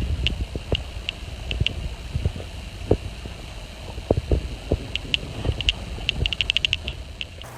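Wind buffeting the microphone, with many short high clicks and a few low knocks; near the end the clicks come in a quick run.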